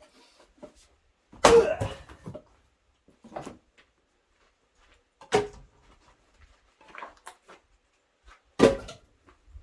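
Axe blows splitting firewood: three sharp, hard strikes, about a second and a half in, a little past five seconds and near the end, the first followed by a short rattle, with a lighter knock in between.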